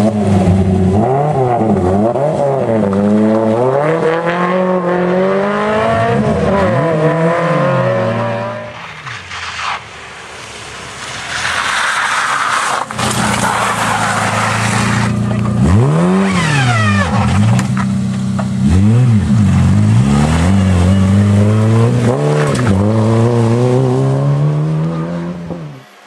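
Rally car engines revving hard, pitch climbing and dropping again and again through gear changes and lifts. The sound dips briefly about a third of the way in, and a hissy stretch of tyre or gravel noise comes around the middle.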